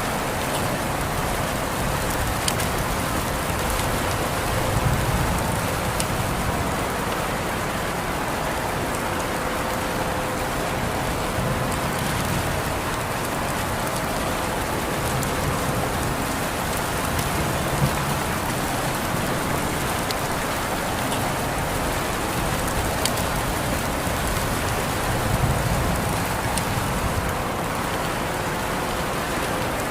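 Steady rain falling on a surface, an even hiss with single drops ticking now and then.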